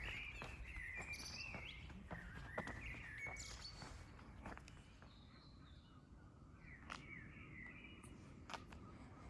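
Small birds chirping in short phrases during the first few seconds and again a little past halfway, over walking footsteps and a low background rumble.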